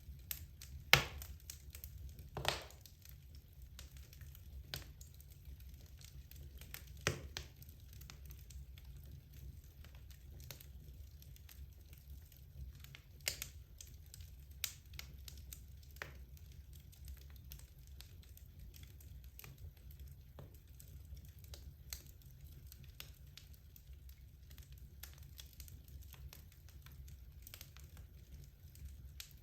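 Wood logs burning in a fireplace, crackling with irregular sharp pops, the loudest about a second in, over a low steady rumble of the fire.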